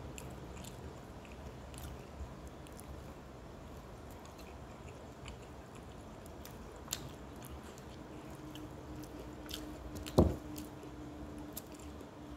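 Close-up chewing and mouth sounds of a person eating rice and fried food by hand, with scattered small clicks of fingers and food on the plate. About ten seconds in there is one brief, louder sound.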